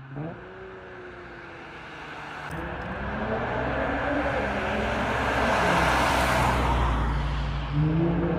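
Acura RL's V6 exhaust: a quick blip at the start, then the engine pulls hard, its note rising and growing louder to a peak about two-thirds of the way through, with another rev rising and falling near the end.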